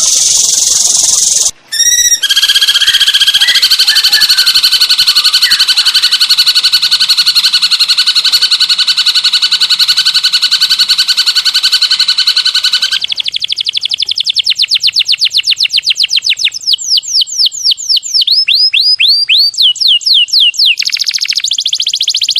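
Recorded songbird song of the kind played as training audio for caged songbirds. It begins with a loud, fast-pulsing trill on steady high notes, then from about halfway changes to a long run of rapid, repeated downward-sliding whistles.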